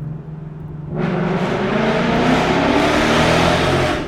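2018 Mustang GT's 5.0 Coyote V8 through a Corsa Extreme active-valve exhaust, going to full throttle in third gear about a second in. The exhaust note turns much louder and rises in pitch as the revs climb toward 5,500 rpm, then falls away just before the end as the throttle is lifted.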